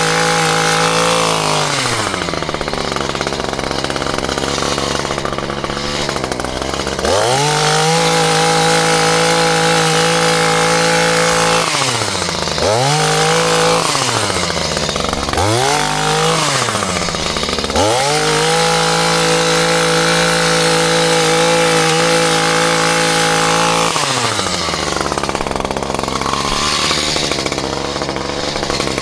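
Petrol chainsaw engine revving: it starts at full throttle, drops to idle after a second or two, then climbs back to full speed, gives a few quick blips of the throttle midway, holds at speed for several seconds and falls back to idle near the end.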